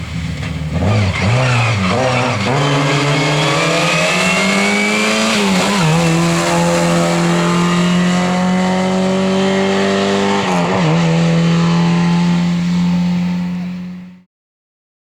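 Lada 2107 rally car's four-cylinder engine at full throttle, revving up through the gears with a quick drop in pitch at each upshift, several shifts in the first few seconds and a long steady climb before another shift about ten and a half seconds in. The sound cuts off abruptly shortly after fourteen seconds.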